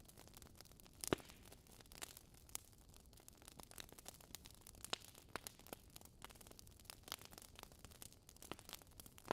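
Wood fire crackling: irregular sharp pops and snaps from burning logs over a faint steady hiss, with the loudest pop about a second in.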